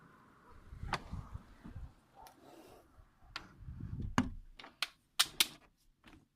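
Gusty wind rumbling on the microphone, with about ten sharp, irregular clicks and taps, most of them in the second half.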